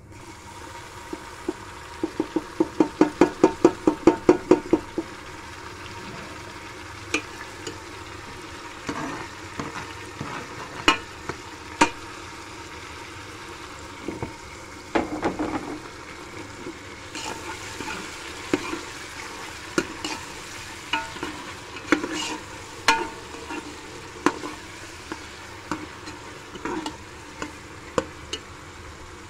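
Chopped tomatoes and onions sizzling in hot oil in an aluminium pressure-cooker pot, stirred with a steel ladle that scrapes and clinks against the metal. About two seconds in comes a quick run of sharp taps lasting about three seconds, then single clinks every second or so.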